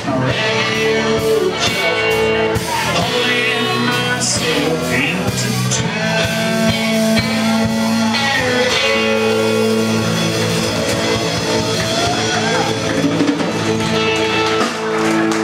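Live rock band playing, with guitar to the fore over held chords and sliding, bent notes.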